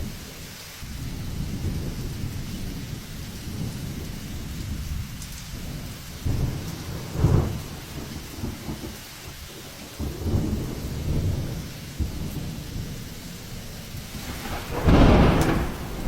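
Hurricane storm noise: wind rumbling and gusting with rain, swelling a few times and surging loudest about a second before the end.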